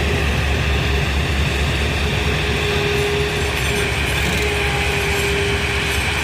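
A rail vehicle running on the track: a steady, loud rumble with a thin whine held over it.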